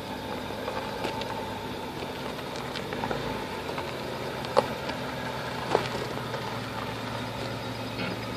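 Land Rover Freelander's engine idling steadily, with two sharp clicks about four and a half and almost six seconds in.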